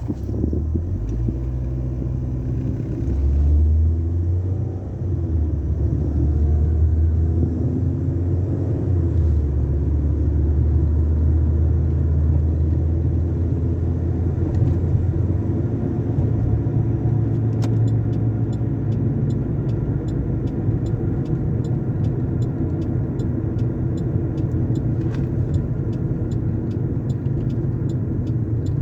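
A car idling in an automatic car wash tunnel, with a steady low rumble throughout. About two-thirds of the way in, a regular ticking starts, about two ticks a second.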